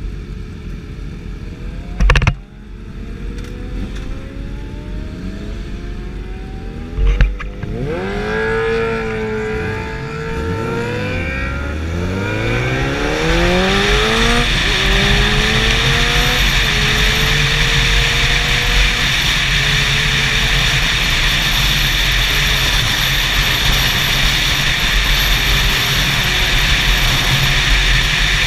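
Motorcycle engine revving, its pitch rising and falling several times, then a loud steady rush of engine and wind noise at speed. Two sharp knocks come a few seconds apart before the revving starts.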